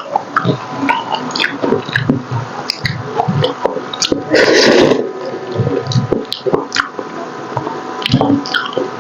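Close-miked wet chewing and lip smacks from eating paksiw na pata, soft braised pork hock, with a louder, noisier wet sound lasting under a second about halfway through.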